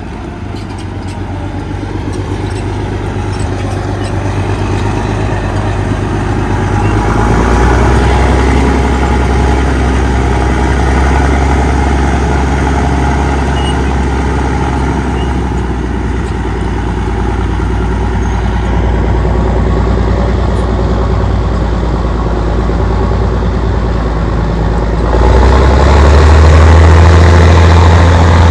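Allis-Chalmers HD-21 crawler dozer's diesel engine running as the machine works dirt: a steady low drone that builds over the first several seconds, then steps up louder about 25 seconds in.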